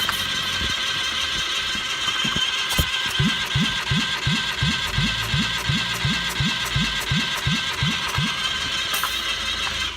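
Chevrolet/Daewoo A08S3 0.8-litre three-cylinder SOHC engine being turned over for a check. It beats with a regular low pulse about three times a second over a steady higher hum.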